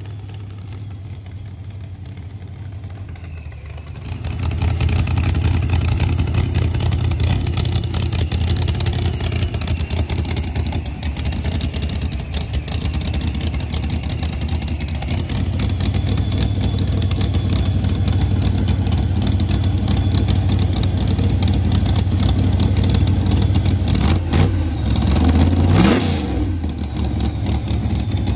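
A drag-racing car's engine running loudly at the starting line after a burnout. It gets much louder about four seconds in and holds a heavy, steady rumble, with a brief rise and fall in pitch near the end.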